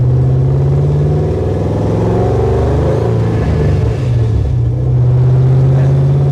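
LSX V8 of a 1968 Camaro SS running through 2.5-inch stainless steel exhaust pipes while driving, heard from inside the cabin. The engine note falls over a couple of seconds and dips briefly about four seconds in as the manual gear lever is worked, then pulls steadily and a little louder.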